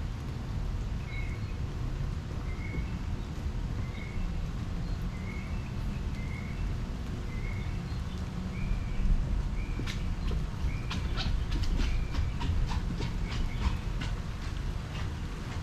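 A short animal chirp repeating about every two-thirds of a second over a steady low rumble. A run of sharp clicks starts about ten seconds in and lasts several seconds.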